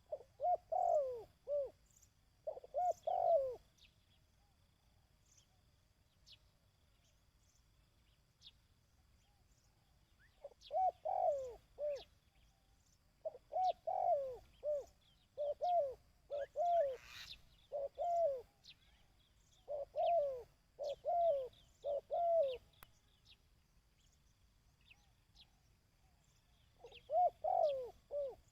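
Dove cooing in quick repeated phrases of short, falling coos. The bouts come in groups: one at the start, a run of about twelve seconds after a pause, and another near the end. This is the 'kích bổi' call used to train a decoy dove.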